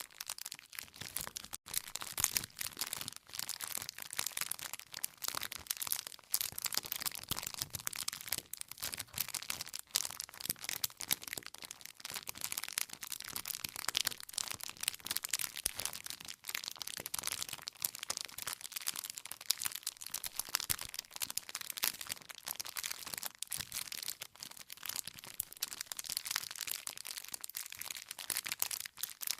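Campfire of burning wood crackling and popping: a dense, irregular run of sharp snaps with no let-up.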